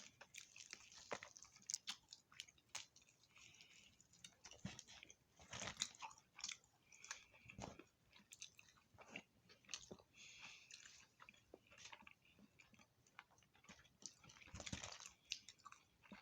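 Chewing and biting crunchy food: a string of small wet mouth clicks and crackles, with a few louder crunching bites.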